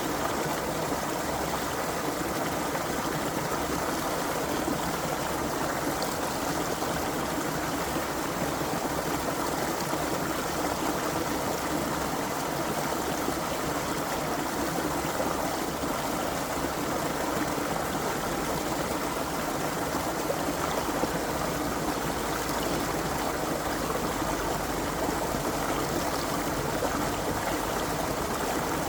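Creek water running steadily over stones, an even rushing and trickling.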